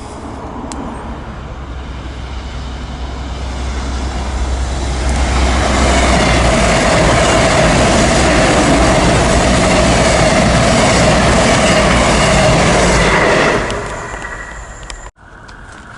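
A diesel train passing close by on the line: it grows louder over about five seconds, rushes past at full loudness for about eight seconds with a low rumble and wheel noise, then dies away quickly near the end.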